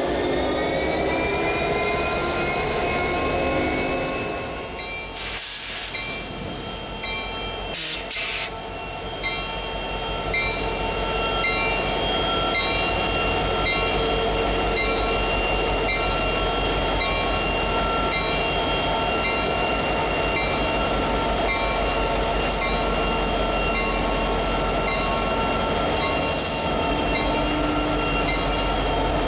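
BNSF diesel-electric freight locomotives, SD70MAC units, passing close by at speed with a constant heavy rumble of engines and wheels. Steady high-pitched whining tones ride over it and rise in pitch during the first few seconds. Two brief hissing bursts come about five and eight seconds in.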